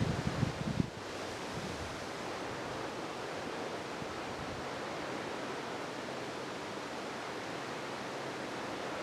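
Steady wash of small waves on the Green Bay shoreline, with wind buffeting the microphone in the first second.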